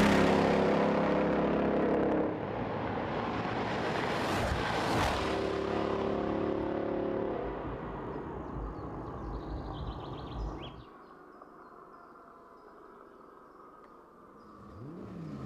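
Sports car engines at full throttle, accelerating hard and passing by, the loudest pass about five seconds in. The sound fades away after about ten seconds, and another engine rises near the end as the next car approaches.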